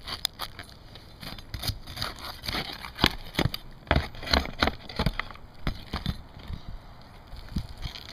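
A damaged roof shingle being pried up and torn off: a run of irregular sharp knocks, cracks and scrapes, thickest and loudest about three to five seconds in.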